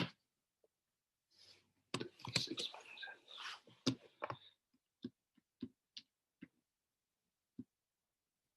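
Soft clicking and tapping: a quick cluster of clicks about two seconds in, then half a dozen single clicks spaced roughly half a second apart, stopping well before the end.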